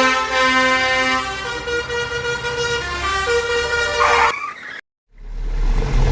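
Vehicle horn sounding in long held notes that shift pitch a few times, cutting off abruptly about four seconds in; after a moment of silence a low, steady rumble starts.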